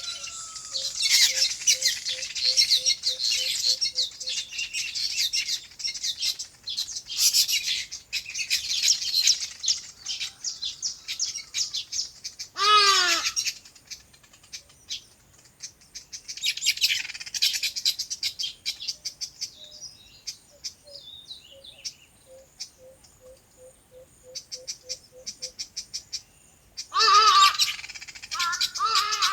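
A flock of small birds chirping together in bursts, with a single loud call about halfway through and more loud, pitched calls near the end. A low note repeated rapidly comes and goes underneath.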